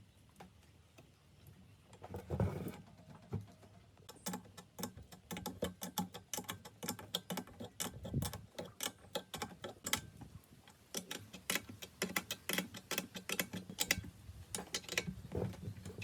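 Rapid, irregular clicks and light knocks from hand work on small metal parts of a drill press, with a heavier knock about two seconds in.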